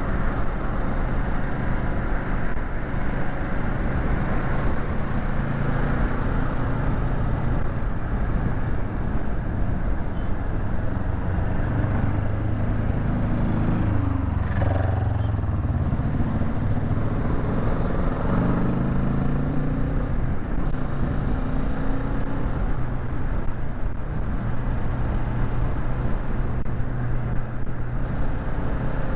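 Kawasaki Z650's parallel-twin engine running under way, over a steady rush of wind noise. The revs drop and climb again a few times around the middle.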